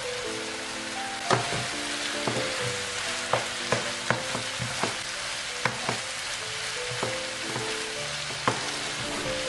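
Chicken livers with onion and peppers sizzling steadily in a nonstick frying pan. From about a second in, a wooden spoon stirs them, knocking and scraping against the pan at irregular intervals.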